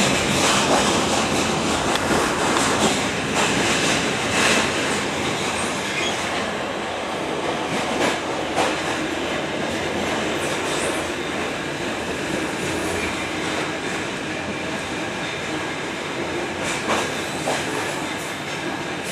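Flåm Railway train running along the line, heard from inside a passenger coach: a steady rumble of wheels on rail, with now and then a sharp click or knock from the track.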